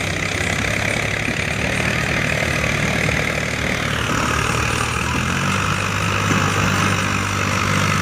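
Tractor engine running steadily, its note changing about halfway through.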